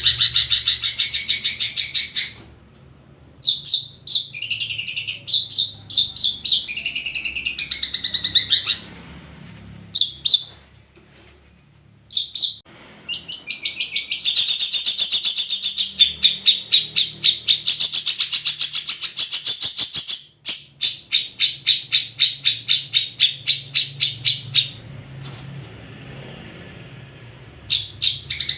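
Long-tailed shrikes (cendet) singing: fast, rattling chatter of rapidly repeated high notes in long bursts, broken by several short pauses.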